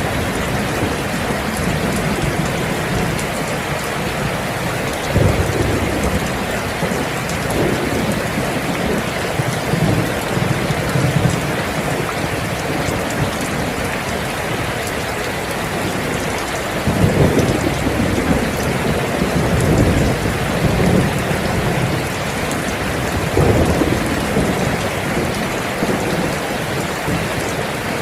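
Steady heavy rain, with low rumbles of thunder swelling through it several times.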